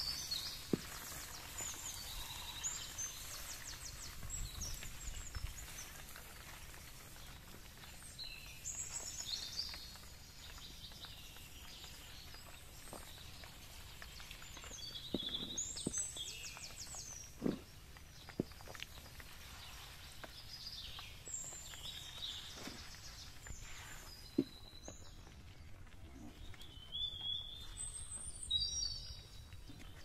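Small birds chirping and trilling in repeated short phrases over a steady background hiss, with a few sharp knocks.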